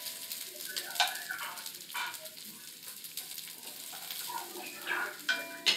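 Food sizzling in a pot as it is stirred with a wooden spoon, with a few sharp knocks and scrapes of the spoon against the pot, two of them close together near the end.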